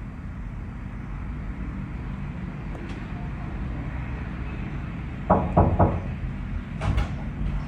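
Steady low rumble of a moving vehicle, with three quick knocks about five seconds in and another single knock near the end.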